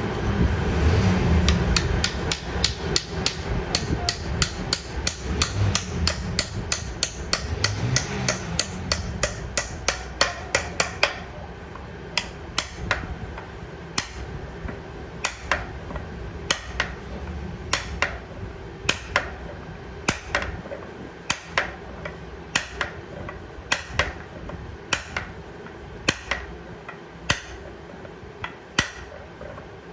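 Hammer striking metal, a rapid run of blows at about four or five a second for the first ten seconds or so, then slower, spaced blows about one or two a second, typical of driving a steel brake sleeve into a motorcycle wheel hub. A low machine hum runs under the first part and fades out about ten seconds in.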